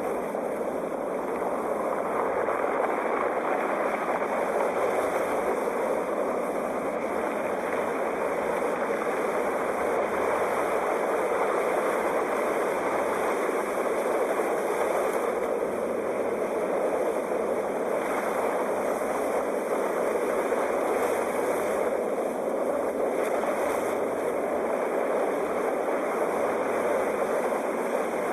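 Ocean surf washing on a shore: a continuous rush of waves, nearly steady in loudness.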